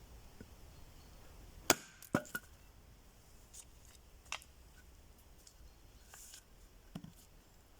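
Axe chopping into a knotty firewood log: one loud, sharp chop a little under two seconds in, two lighter knocks right after it, and a couple of faint knocks later.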